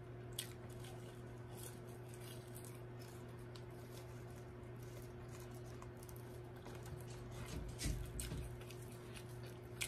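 Faint chewing of McDonald's french fries and fingers picking through a pile of fries: scattered soft clicks, with a few louder handling bumps near the end, over a steady low hum.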